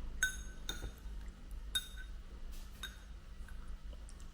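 A few light clinks of tableware, hard objects tapping against dishes or glass, each with a short ringing tone, spaced about a second apart.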